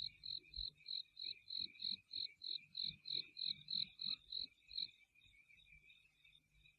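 Crickets chirping: one chirps in a quick steady rhythm of about three chirps a second and stops about five seconds in, while a fainter, lower chirring carries on.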